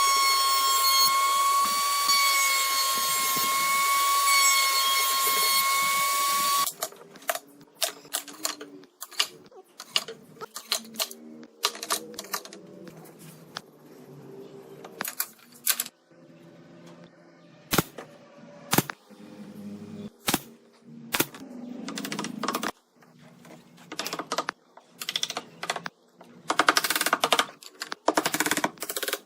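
A power tool's motor running with a steady high whine, which cuts off abruptly about seven seconds in. After that come irregular clicks and knocks of wood and tools being handled, some of them sharp.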